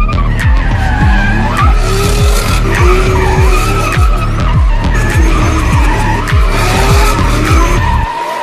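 Tyres of a Toyota Supra squealing in long, wavering screeches as the car slides, over a fast, regular low beat.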